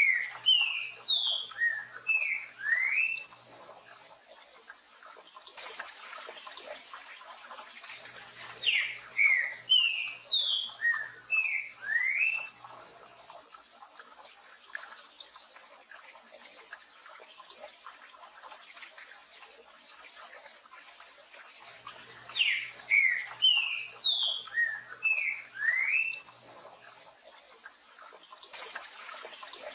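Green-winged saltator (trinca-ferro) singing its 'tio João Pedro boi' song: three phrases of about eight short, sliding whistled notes, each phrase lasting about four seconds and coming roughly every thirteen seconds, with another phrase beginning at the very end. A steady hiss of rain runs underneath.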